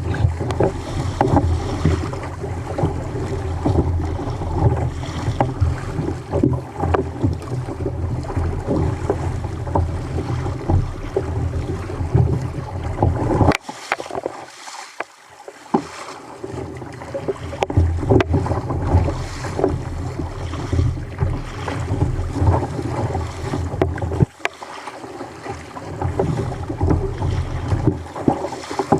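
Wind buffeting the microphone in a continuous, uneven rumble, with sea water moving around a fishing kayak on rough sea. The wind drops away for a couple of seconds about halfway through, and briefly again later.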